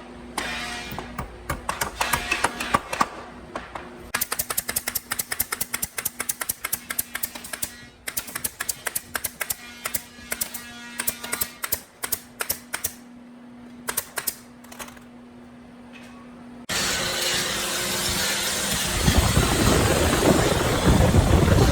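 Woodworking tools: quick runs of sharp taps and clicks over a steady low hum, then about 17 seconds in a power tool starts abruptly with a loud, steady rushing noise.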